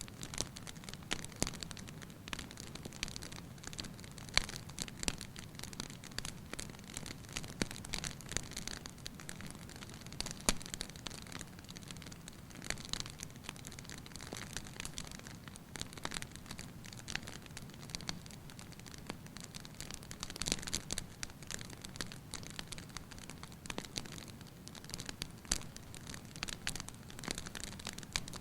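Fire burning in a fireplace: a steady low rush of flame with frequent irregular crackles and snaps.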